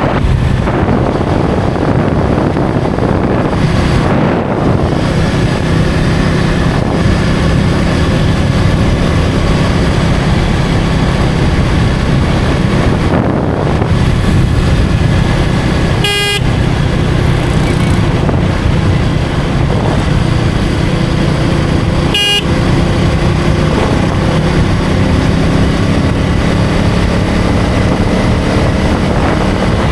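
KTM 250 Duke's single-cylinder engine running steadily under way, with road and wind noise. A vehicle horn gives a short beep about halfway through and another about six seconds later.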